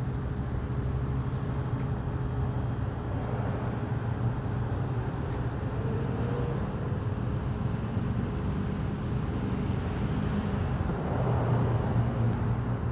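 A motor vehicle's engine running steadily: a low hum with a faint steady tone above it, swelling slightly near the end.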